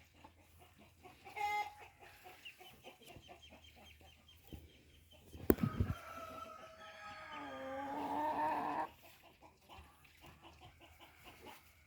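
Chickens clucking, and a rooster crowing once about six seconds in: one long call of about three seconds that swells and then cuts off. Just before the crow there is a single sharp knock.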